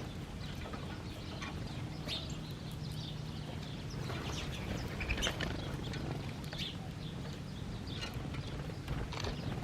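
Small birds chirping, with short, scattered calls throughout, over a low steady hum.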